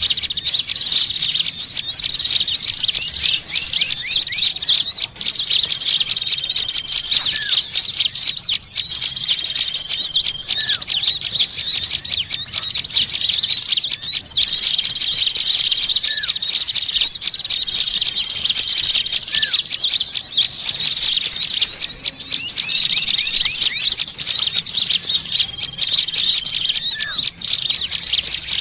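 Pikat bird-lure recording of many small songbirds chattering and calling in an agitated, noisy chorus, the alarm-like mobbing din used to draw small birds in. Rapid high chirps run on without a break, with short steady whistles every few seconds and an occasional lower upward-sweeping note.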